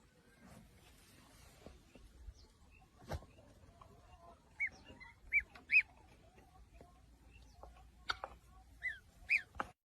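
A small bird chirping: five short chirps in two bursts, a few seconds apart, with a knock about three seconds in and a couple of clicks near the end.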